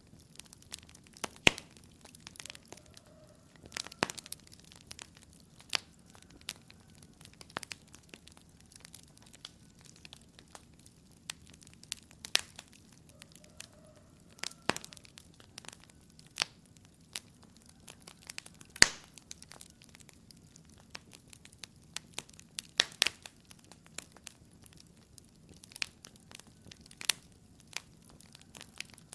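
Wood fire crackling in a fireplace: irregular sharp pops and snaps over a soft, steady hiss, with a few louder snaps standing out.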